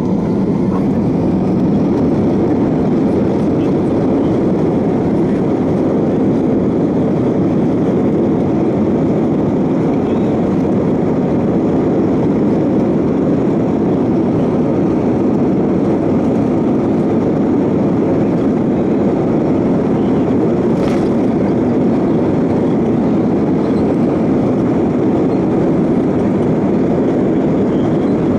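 Steady cabin noise inside an Airbus A320-232: the even, dense din of its engines and rushing air, unchanging throughout, with one faint click about 21 seconds in.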